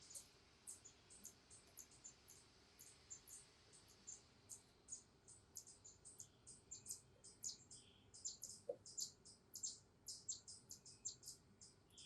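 Faint, rapid high-pitched chirping of small birds: many short notes, several a second, unevenly spaced, growing denser and louder in the second half.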